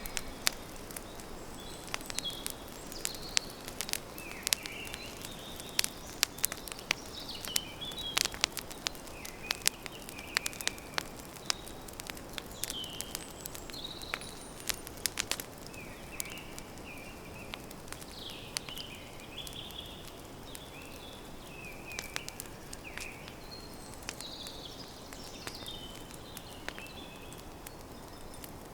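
Wood campfire crackling and popping with many irregular sharp snaps, busiest in the first half, while small birds chirp in short phrases in the background.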